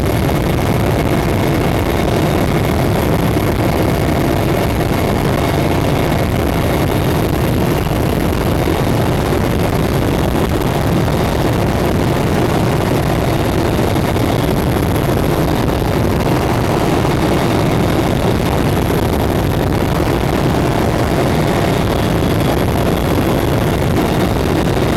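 Mi-8 helicopter turbines and rotors heard from inside the cabin in cruise: a loud, steady drone with faint high-pitched whines on top.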